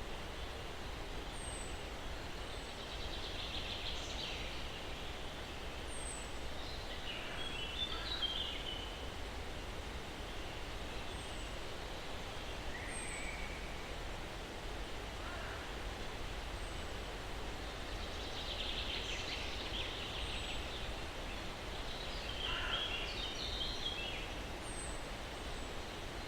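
Steady soft breeze hiss in pine trees with birdsong over it: trilled bird phrases in two similar pairs about fifteen seconds apart, and faint high chirps every few seconds.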